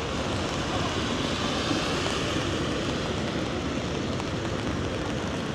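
Steady, even city street noise: a continuous wash of traffic and general outdoor bustle with no single event standing out.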